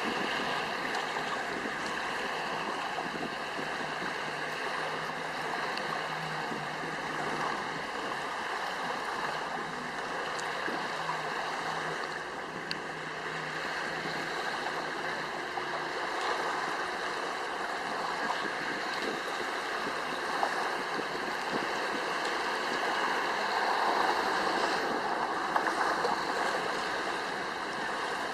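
Steady rushing of water and wind, with faint steady tones underneath.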